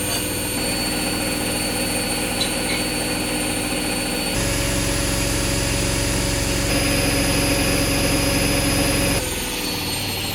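Hoover Wizard washer dryer spinning at high speed on its final spin cycle: a steady motor whine over a low drum hum and vibration. The tone shifts abruptly about four seconds in and drops near the end.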